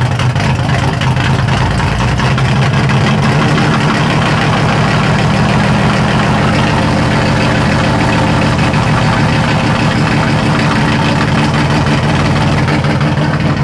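Chevrolet S-10's old 4.3L V6, with a flat-tappet hydraulic camshaft, running steadily at idle.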